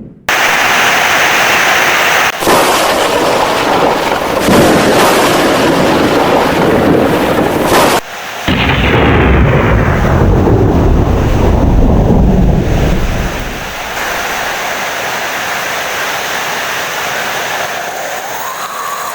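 Heavy rain with rolling thunder. A long low rumble cuts off abruptly about eight seconds in; a second rumble follows and dies away over several seconds, leaving steady rain.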